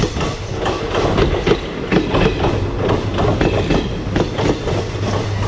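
Long train rolling past at close range: its wheels clatter over the rail joints in a rapid run of clicks and knocks over a steady low rumble, loud enough to drown a shouted voice.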